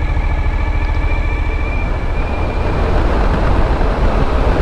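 Motorcycle riding at road speed: steady engine drone under heavy wind rush and rumble on the microphone, with a faint high whine that fades out about halfway through.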